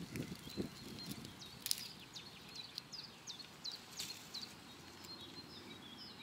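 Small birds chirping in a string of short, high notes. In the first second there is a soft rustle of leaves being handled, and two sharp clicks come a couple of seconds apart.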